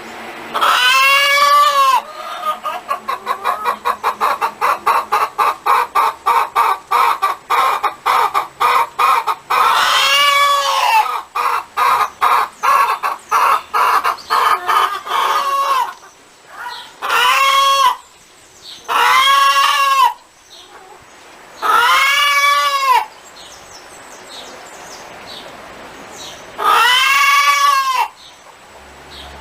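Hens cackling: a long run of quick repeated clucks at about three a second, broken by six long drawn-out squawks that rise and fall in pitch, each about a second long.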